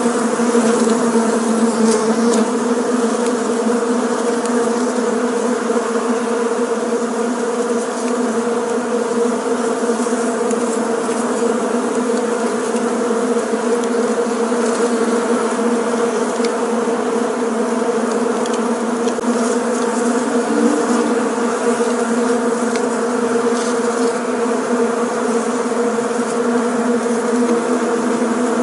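Many bees buzzing together in a steady, dense hum, the sound of a swarm or busy hive.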